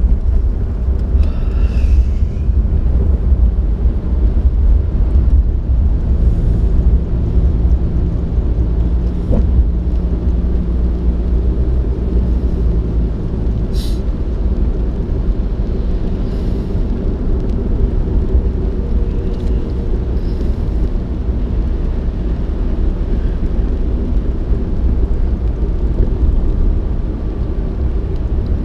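Steady low rumble of a moving vehicle, its running and road or wind noise heavy on the microphone, with a single sharp click about fourteen seconds in.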